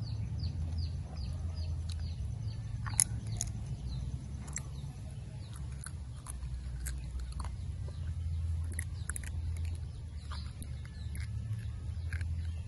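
A person chewing dried banana close to the microphone, with scattered wet mouth clicks and smacks over a steady low rumble.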